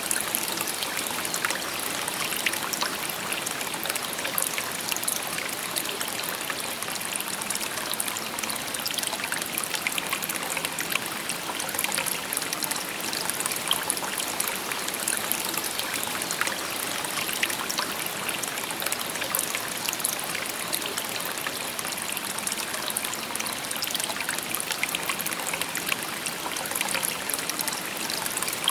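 A shallow stream babbling steadily over stones, with small splashes and trickles throughout.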